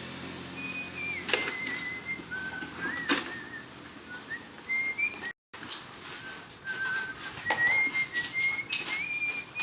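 A person whistling a slow tune of held notes, with a few sharp knocks of tools on metal now and then. The whistling breaks off for an instant about halfway through.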